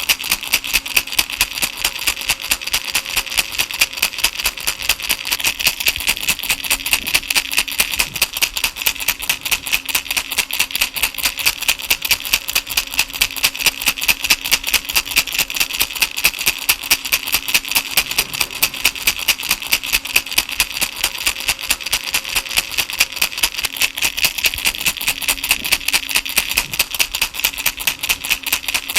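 Baby rattle shaken in a fast, steady rhythm: a continuous, even rattling of small beads against a hollow shell, several shakes a second.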